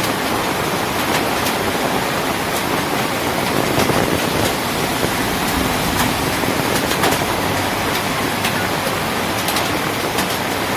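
Heavy rain pouring down: a steady loud hiss with frequent sharp splash ticks.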